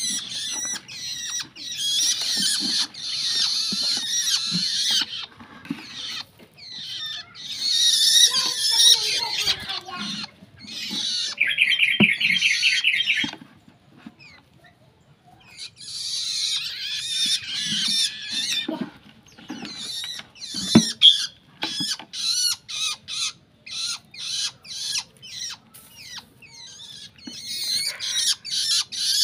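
Young long-tailed shrike calling in harsh, high, scratchy bouts, with a short fast rattling trill about halfway through and a brief pause just after it.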